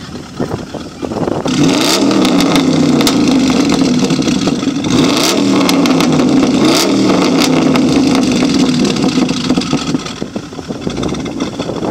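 Car engine revved hard through a loud aftermarket exhaust: it rises sharply in pitch three times, held high between, with several sharp cracks mixed in, then drops back near the end.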